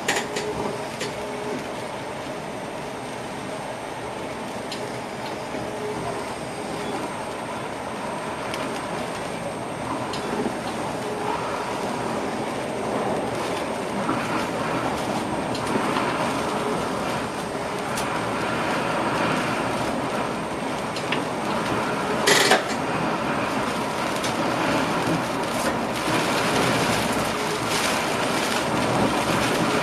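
NS passenger train running along the track, heard from inside the driver's cab: a steady rumble of wheels and running gear that grows gradually louder, with one sharp click about two-thirds of the way through.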